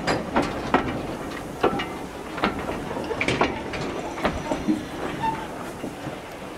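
Railway passenger coaches rolling slowly past, their wheels clanking and knocking irregularly over the track, with a few brief squeals.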